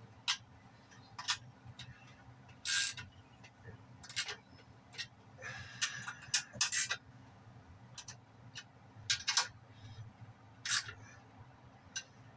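Irregular light clicks and clinks of hand tools working on metal machine parts, about a dozen spread unevenly, over a faint steady low hum.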